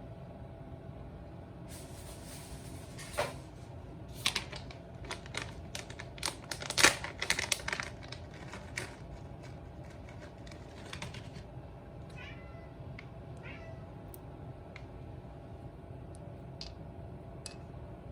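A cat eating, with a run of crunching and clicking sounds for several seconds, then two short high meows.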